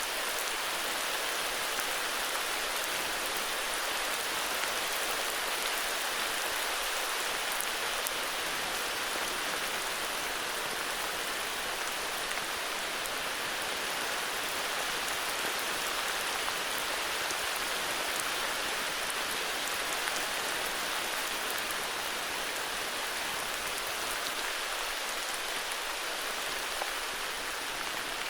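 Heavy rain falling steadily: an even hiss of rain on surfaces, with now and then a sharper single drop tick.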